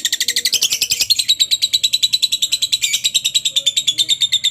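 Lovebird 'ngekek': a long, unbroken run of sharp, high chirps, about a dozen a second, the prolonged rapid chatter of a lovebird in full song.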